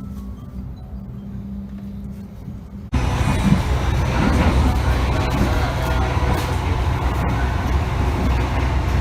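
Passenger train in motion: a steady hum, then from about three seconds in, a much louder, even rumble of the running train that starts suddenly.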